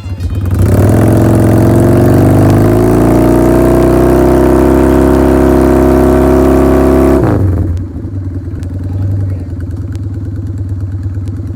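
Motorcycle engine running loud, rising in pitch over the first few seconds and then holding steady. About seven seconds in it drops off sharply to a quieter, lower running sound.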